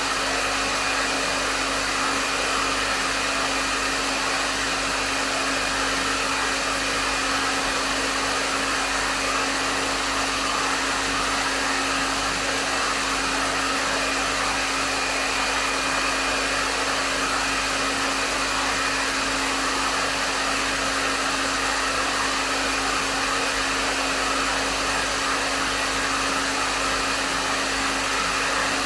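Hair dryer running steadily at a medium setting: an even rush of airflow with a constant motor hum underneath.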